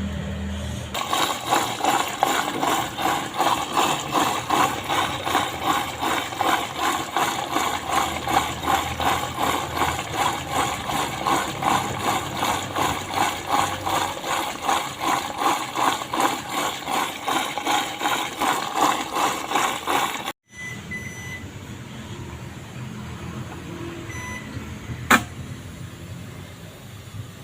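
Washing machine running with an even, rhythmic pulse about twice a second. The pulse stops abruptly about twenty seconds in, leaving a quieter steady noise with one sharp click near the end.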